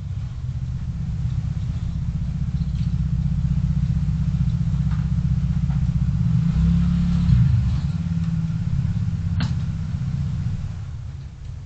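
Low, steady rumble of a car's engine and tyres while driving, picked up by a dashcam in the cabin. It swells a little in the middle and eases near the end, with one sharp click about nine seconds in.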